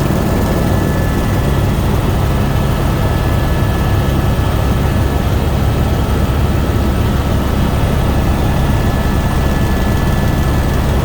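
Helicopter in flight: a steady, loud drone with a heavy low rumble and a faint, steady high whine.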